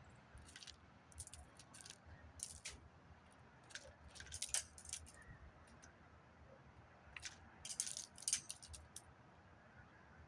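Light clicking and rattling in short clusters a few seconds apart, the loudest group about four and a half seconds in and another near eight seconds.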